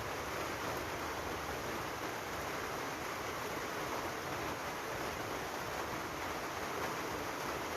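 Steady rain, an even hiss without distinct drops or changes.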